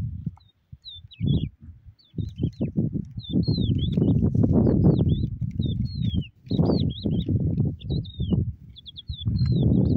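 Small songbirds chirping and twittering repeatedly in short, rapid pitch-sliding calls, over a loud low rushing noise that comes and goes in gusts.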